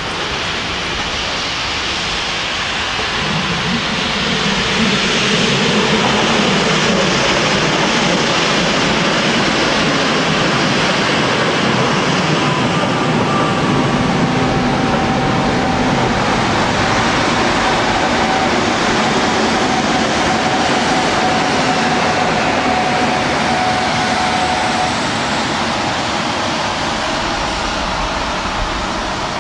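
Push-pull local train of coaches with a DB class 141 electric locomotive at the rear running past: a steady rumble of wheels on rail that swells about three seconds in and holds. A faint steady whine runs through the middle of the pass.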